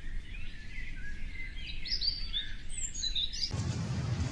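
Several birds chirping and twittering in short, sliding high notes. About three and a half seconds in, the birdsong cuts off abruptly and is replaced by a louder, low rumbling outdoor background noise.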